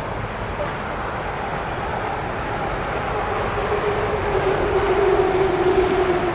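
Airbus A380's jet engines running at taxi power: a steady rush with a whining tone that grows louder over the last few seconds.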